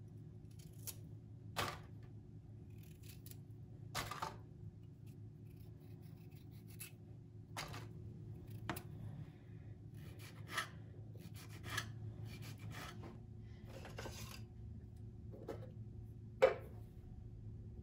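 Faint, scattered light scrapes and ticks of small objects being handled, over a low steady hum, with one sharper tap near the end.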